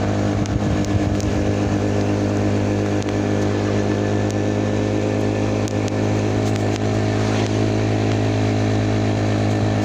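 Truck engine running at a steady speed, a constant low drone that holds one pitch throughout.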